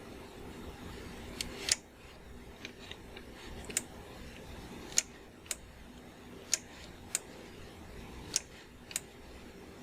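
About ten single sharp clicks of computer input controls, spaced irregularly, over a faint steady hum.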